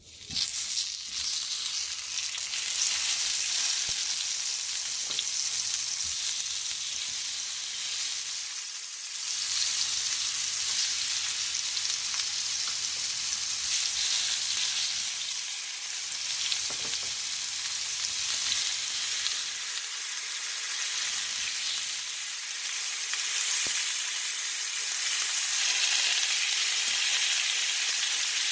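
Tomatoes frying in olive oil in a pan, a steady, loud sizzle with a few faint clicks.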